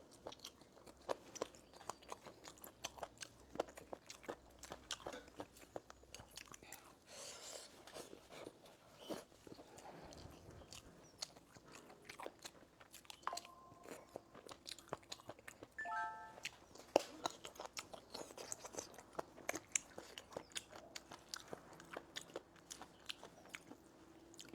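A person eating close to the microphone: chewing and crunching food, with many small mouth clicks.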